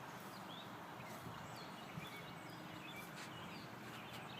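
Faint outdoor ambience with scattered short, high bird chirps and a few light clicks.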